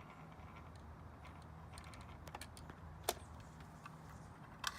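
Scattered small clicks and taps from handling a mini sewing machine and fabric, with a sharp click about three seconds in and another near the end, over a low steady hum.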